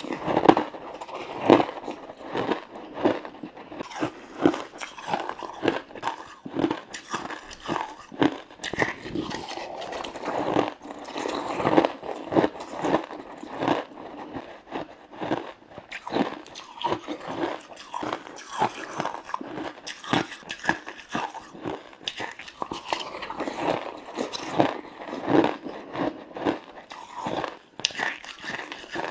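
Close-up biting and crunching of frozen matcha ice, an irregular run of sharp crunches and cracks, a few a second.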